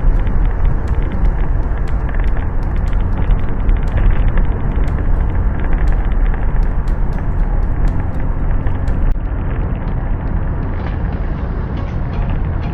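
Steady low rumble of a vehicle in motion, with a scattering of faint sharp ticks.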